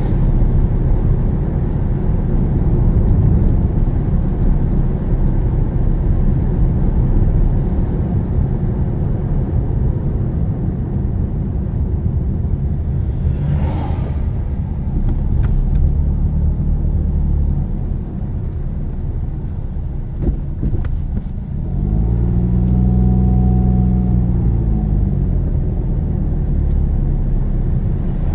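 Car engine and road rumble heard from inside a moving car. About three quarters of the way through, an engine note rises and then falls again.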